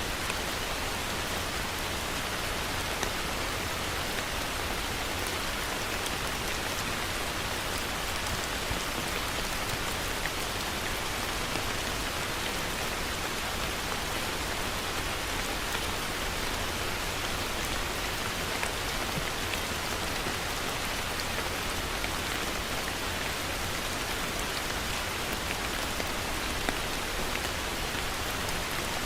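Heavy rain falling steadily, an even hiss of rain on surfaces with occasional louder drop ticks.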